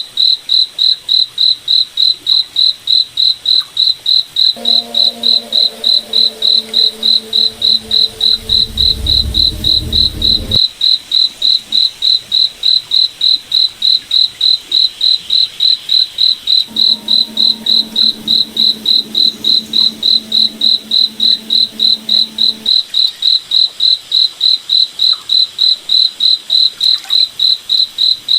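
Cricket chirping in a steady, even rhythm, about three chirps a second on one high pitch. Twice a low steady hum joins underneath for several seconds, the first time with a deeper rumble building near its end.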